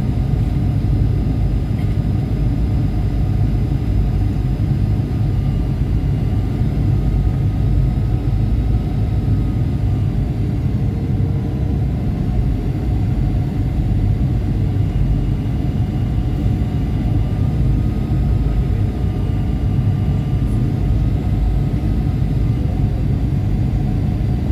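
Jet airliner cabin noise during the approach to landing: a steady, loud low rumble of engines and airflow, with faint thin tones wavering above it.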